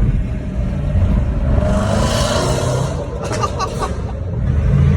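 A car on the move: steady low engine and road rumble, with a rushing hiss that swells and fades in the middle.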